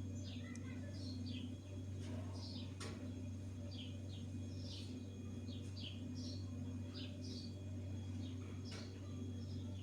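Small birds chirping: short, high calls repeated throughout, over a steady low hum.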